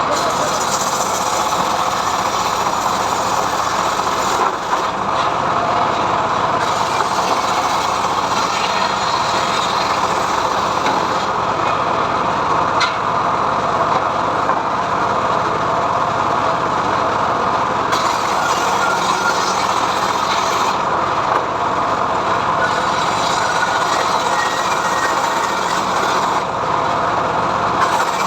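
Homemade sawmill running steadily as its saw blade rips through mahogany wood: a continuous, unbroken machine noise.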